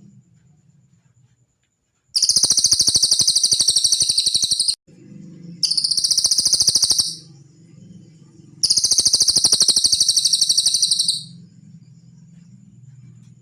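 Cililin bird singing three loud, fast, high-pitched trills. The first and last each last about two and a half seconds, and the middle one is shorter. A faint low hum runs underneath.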